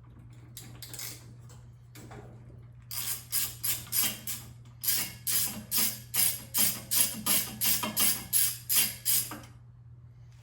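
A newer-style Briggs & Stratton snowblower engine is turned over on its recoil pull starter without starting. It makes a run of regular ratcheting strokes, about two to three a second, with a short break about halfway through. The engine is being cranked to check for ignition spark with the plug out.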